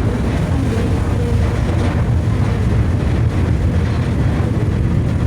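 Passenger ferry's engines running: a steady low rumble of the ship under way.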